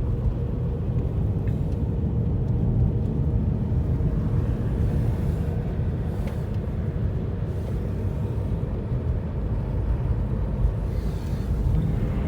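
Steady low rumble of a car driving through snow, heard from inside the cabin: engine and road noise at an even pace.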